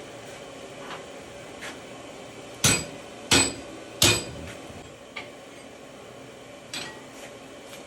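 Blacksmith's hammer blows on iron at the anvil while forging a tomahawk: three heavy, ringing strikes in quick succession, with a few lighter taps before and after.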